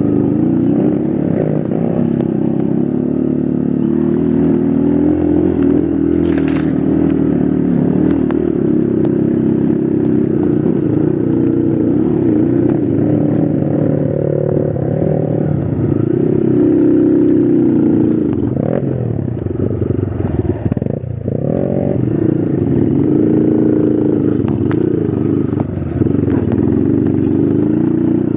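Trail motorcycle engine running under throttle off-road, the revs rising and falling, with clattering from the bike over rough ground. The revs drop briefly about twenty seconds in before picking up again.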